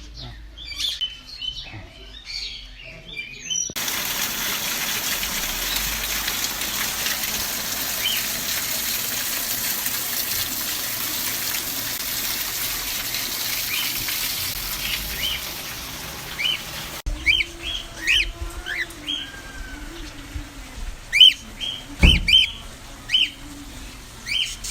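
Many small birds chirping and tweeting in an aviary, short high calls overlapping. From about four seconds in, a steady hiss lies under the calls; it stops suddenly after about thirteen seconds. Later a single loud knock is heard among the chirps.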